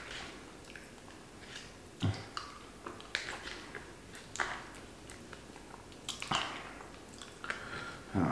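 Close-miked eating sounds: chewing and mouth noises, with scattered soft clicks and scrapes of a plastic spoon in a plastic side cup.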